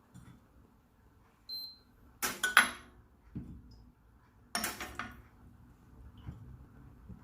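Metal coffee utensils handled on a countertop: a short ringing clink, then two bursts of sharp metallic clattering a couple of seconds apart with a dull thud between them and a small knock near the end.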